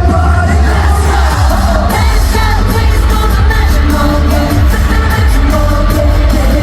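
Loud pop song with singing over a heavy, steady bass beat.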